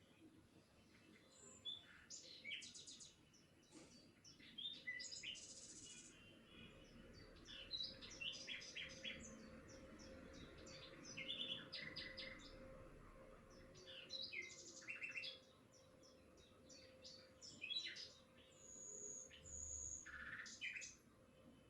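Faint birdsong: several small birds chirping, with many short high calls and quick trills overlapping.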